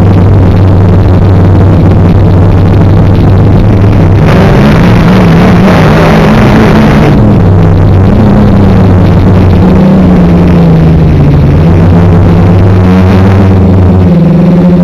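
Quadcopter's brushless motors and propellers droning, the pitch wandering up and down as the throttle changes, with a louder, rushing surge for a few seconds in the middle.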